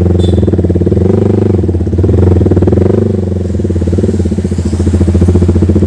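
Yamaha R15 V4's single-cylinder engine running loud through an aftermarket SC Project full-system exhaust, a continuous pulsing exhaust note with the revs rising and falling slightly.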